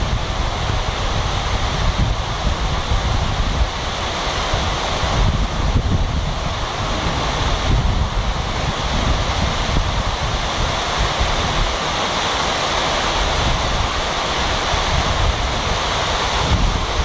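Heavy rain pouring steadily, a dense even hiss, with wind buffeting the microphone in a low uneven rumble.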